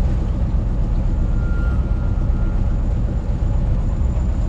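Riverboat engine running steadily under way, a loud, even low rumble.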